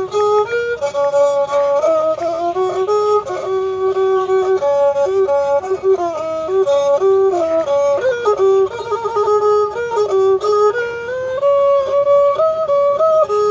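Thai pi, a reed oboe, playing a continuous traditional melody. It moves in steps between held notes, with quick ornamental turns.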